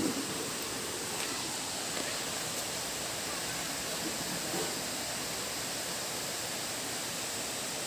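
Steady rushing hiss of falling water, even and unbroken.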